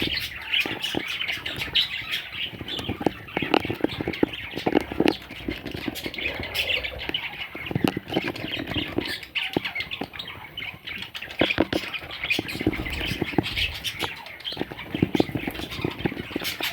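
Baby budgerigars squawking and chirping without a break, with many small clicks and scratches among the calls.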